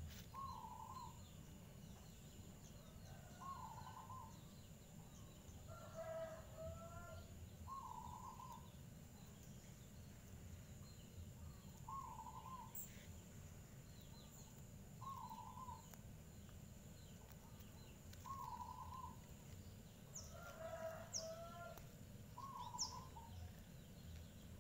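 Faint birdsong: a short call repeats about every three to four seconds, and a fuller, lower call comes twice. Underneath are a steady high thin tone and a low rumble.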